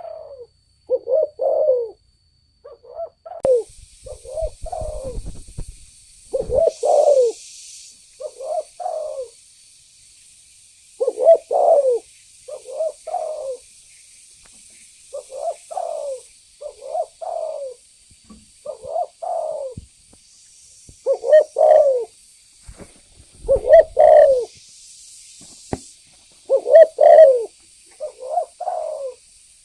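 Spotted dove (tekukur) singing gacor, giving its cooing call over and over. Each phrase is two or three low coos, and a new phrase comes every couple of seconds.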